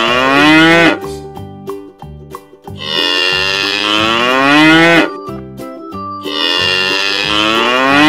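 Cow mooing: long drawn-out moos that rise in pitch and then stop, one ending about a second in, a full one in the middle, and another starting near the end. A soft children's music bed plays underneath.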